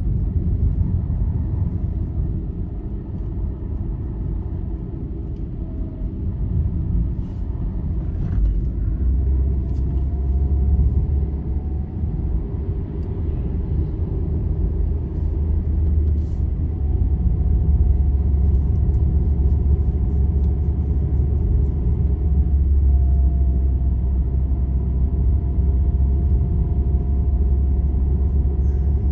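A vehicle travelling along a highway: a steady low rumble of engine and road noise that grows heavier about a third of the way in, with a faint whine above it that drifts slightly in pitch and a few light clicks.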